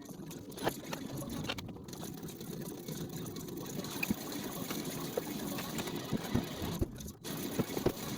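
A motor or engine running steadily, with scattered clicks and knocks over it.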